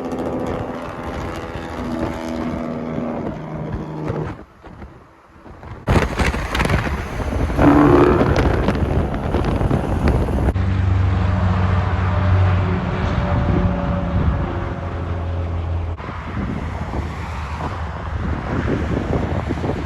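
Semi trucks driving past, their diesel engines running over tyre and wind noise, with wind buffeting the microphone. The sound changes abruptly several times as one passing truck is cut to the next, with a brief drop in level about five seconds in.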